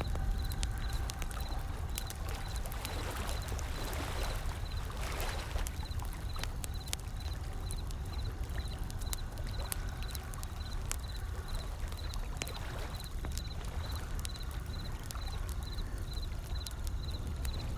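Wood fire crackling with scattered sharp pops over the low, steady rumble of ocean waves. A wave washes in a few seconds in, and another about two-thirds of the way through.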